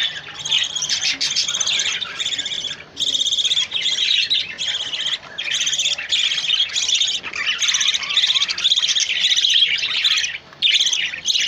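Several small cage birds chirping rapidly and continuously with high, fast notes, in runs of about a second broken by brief pauses.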